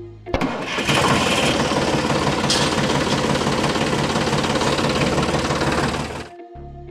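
A small motor on a home-made model machine starts and runs with a fast rattling pulse for about six seconds, then stops.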